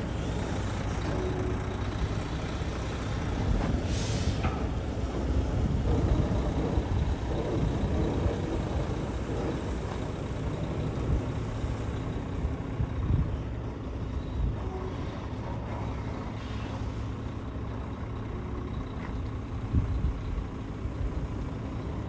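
Heavy truck's engine running steadily, with a short air hiss about four seconds in.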